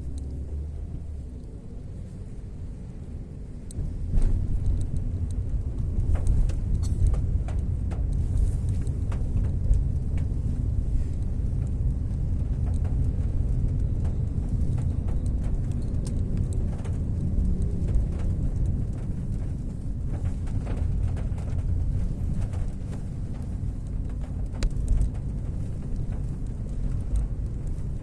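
Fairly heavy rain with a deep rumble underneath that grows louder about four seconds in, and scattered sharp taps throughout.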